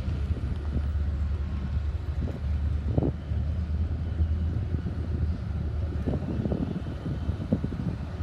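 Diesel-electric freight locomotives running, a steady low rumble with scattered knocks and clicks that come more often from about six seconds in. Wind buffets the microphone.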